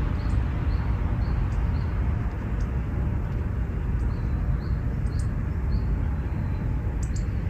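Small birds chirping: short, high calls, about one or two a second, over a steady low rumble of outdoor ambience.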